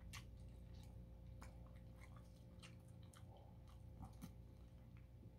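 A person chewing chicken adobo cooked down dry until it is like fried chicken, heard as faint, scattered short clicks and crunches over a steady low hum.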